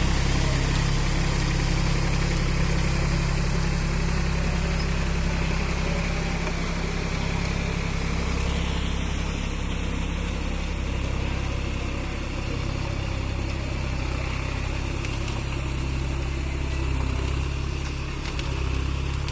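Powertrac tractor's diesel engine running at a steady low speed.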